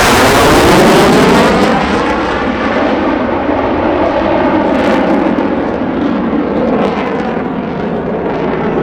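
Jet aircraft passing low overhead: loud jet noise that peaks about a second in, with a falling sweep in its tone as it passes, then a steady rush that eases slowly.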